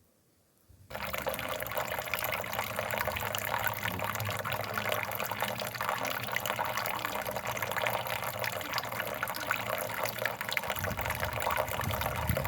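Steady rushing of river water, starting abruptly about a second in.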